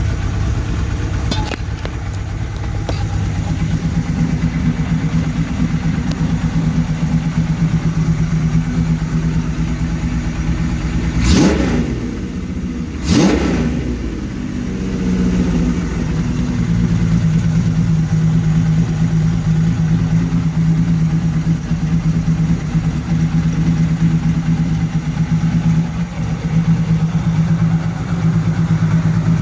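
Suzuki GS750-based six-cylinder engine running through a six-into-one exhaust, idling steadily. About a third of the way in the throttle is blipped twice in quick succession, with two short sharp rises in revs, before it settles back to idle.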